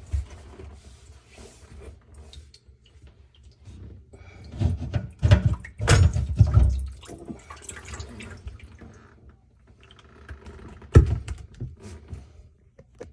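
Irregular knocks, clunks and handling noises, loudest in a cluster about midway and in one sharp knock near the end, with some dripping water.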